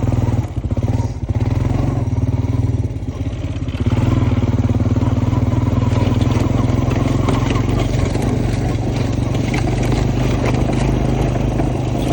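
Honda Foreman ES ATV's single-cylinder engine running with an uneven, pulsing note, then settling into a steadier, louder run from about four seconds in, with scattered light ticks over it.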